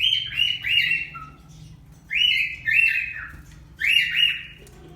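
Pet birds calling: three bursts of two or three quick calls each, spaced about a second and a half to two seconds apart.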